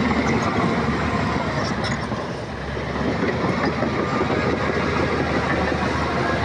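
Crawler bulldozer's diesel engine running under load with a steady, rapid clatter of its steel tracks; the level dips briefly about two and a half seconds in.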